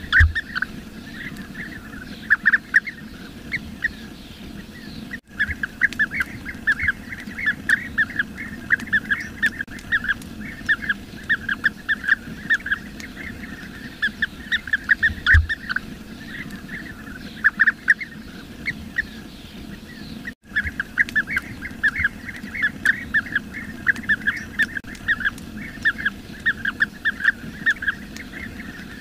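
A flock of bee-eaters calling continuously, many short rolling calls overlapping several times a second. The stream breaks off for a moment twice, and there are a couple of low thumps.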